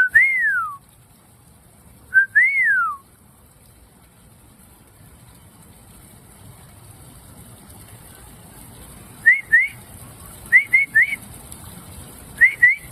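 A person whistling: two long slurred whistles that rise and then fall, followed, from about nine seconds in, by short upward chirping whistles in pairs and threes.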